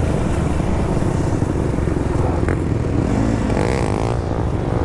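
Dirt bike engine running under way, with heavy wind buffeting the microphone. A higher engine note wavers up and down briefly about three and a half seconds in.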